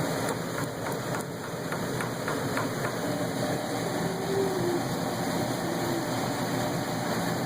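Furnace running with a steady, even hum, with a few faint ticks in the first few seconds.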